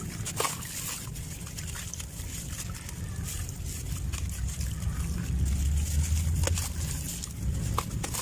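Clumps of dry sandy material crumbling, giving scattered crunchy crackles over a steady low rumble that is strongest about five to seven seconds in.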